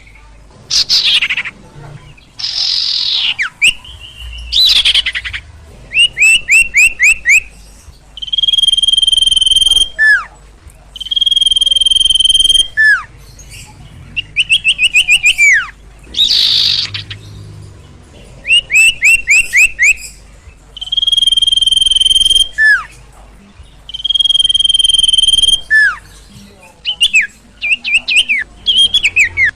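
Repeated loud, agitated calls of the bird known in Indonesia as sirtu or sirpo: long, level, high whistles, each ending in a short falling note, alternating with quick runs of falling chirps.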